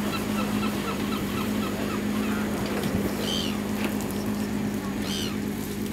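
Birds calling over a steady low motor hum: a quick run of about ten short chirps in the first two seconds, then two harsher calls, one around the middle and one near the end.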